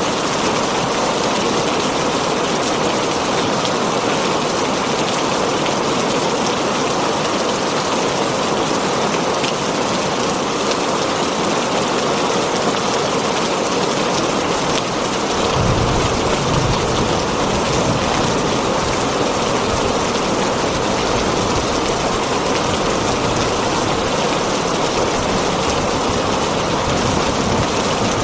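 Heavy rain falling steadily on a tin roof. About halfway through, a low rumble of thunder sets in under the rain and keeps going.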